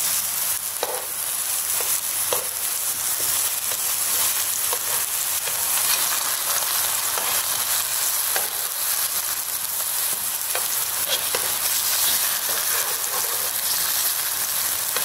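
Ripe plantain slices sizzling steadily in hot ghee in a nonstick pan, with a few light clicks of the spatula against the pan as the pieces are turned.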